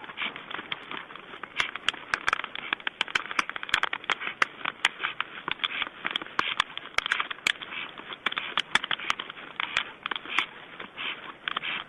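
White stork clattering its bill: a fast, uneven rattle of sharp wooden-sounding clicks that grows denser and louder about a second and a half in.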